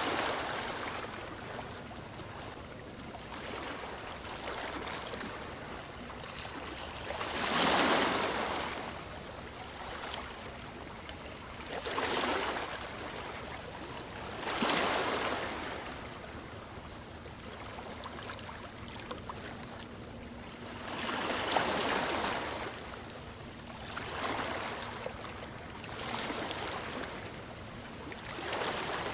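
Ocean waves washing in and breaking, each wash swelling and fading again every few seconds, the strongest about eight seconds in.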